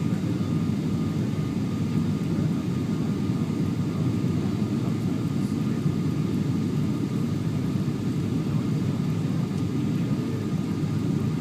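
Cabin noise inside a Boeing 777-200LR airliner: a steady low rumble of engines and airflow, with a faint steady whine above it.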